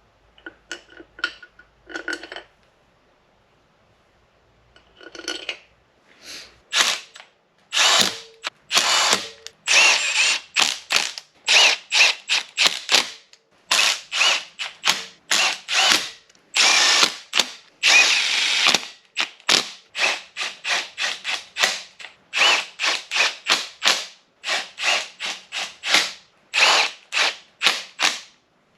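Ratchet wrench clicking through many quick back-strokes, sparse at first and then in a steady run, as the ARP head bolts are run down into the LS 6.0 engine block.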